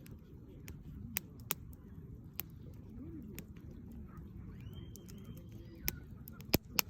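Wood campfire burning with a low steady rumble and sharp crackling pops at irregular intervals, the two loudest pops close together near the end.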